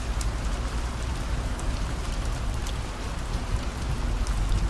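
Steady rain falling, with scattered sharp drop ticks, over the low, even rumble of a car driving on the road.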